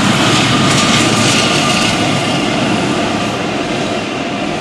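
Norfolk Southern diesel freight locomotive crossing a steel girder bridge, its engine and wheels making a loud, steady rumble. Double-stack intermodal cars follow, and the noise eases slightly toward the end.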